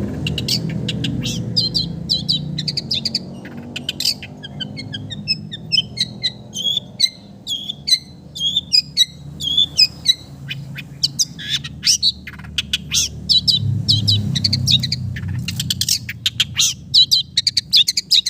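Long-tailed shrike singing a fast, varied song of harsh chattering notes and short whistled phrases, a song stocked with mimicked sooty-headed bulbul calls. A low rumble runs underneath, swelling near the start and again a little past the middle.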